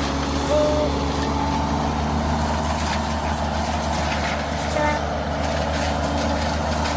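Heavy machine's engine running steadily at a constant speed, a low even drone with mechanical noise above it.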